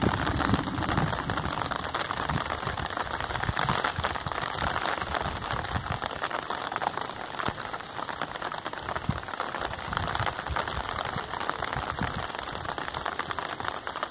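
Steady rain falling, a dense hiss of countless small drop impacts.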